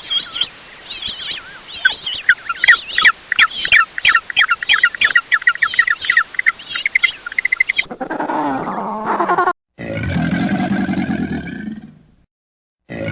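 Edited sequence of animal calls: for about eight seconds, a rapid run of short, high chirping calls, then a cut to separate deeper calls with a clear pitch, each lasting a second or two.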